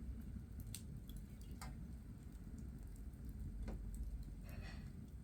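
Coal fire crackling in an open fireplace: scattered, irregular sharp pops and ticks over a low steady rumble.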